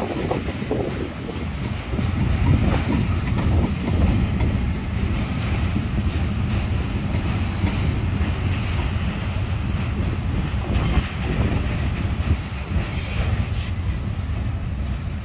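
Train rolling past, a steady rumble of wheels with rhythmic clacking over the rail joints and a faint high wheel squeal now and then.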